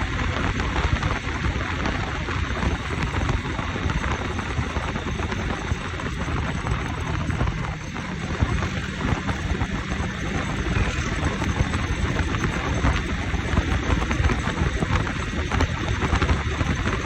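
Riding a motorcycle: wind buffeting the microphone in a constant rough rumble, with engine and road noise underneath.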